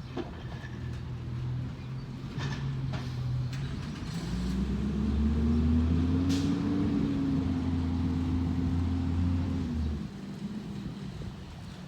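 Recycling truck's diesel engine idling, with a few sharp clanks, then revving up in a rising whine that is held for several seconds. It drops back abruptly to idle about ten seconds in.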